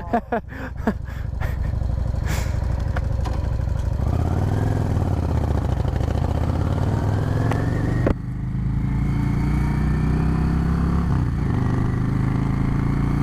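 Motorcycle engine pulling under acceleration, its pitch rising steadily, then dropping sharply about eight seconds in as it shifts up a gear, and climbing slowly again to a steady cruise, with wind rumble on the microphone.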